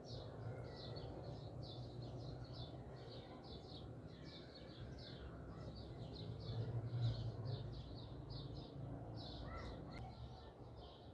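Outdoor birdsong: short high chirps repeated quickly and evenly, roughly three a second, over a low steady rumble.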